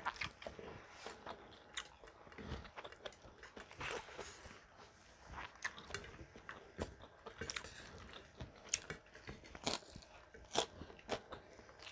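A person chewing and biting crunchy food, with irregular small crunches and mouth clicks.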